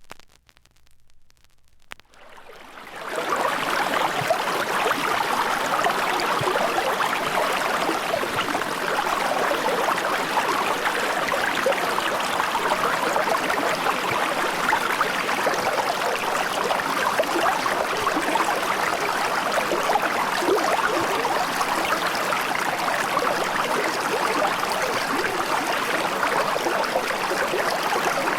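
Steady running water, an even rushing and trickling noise that fades in over the first three seconds after a few faint clicks and then holds constant.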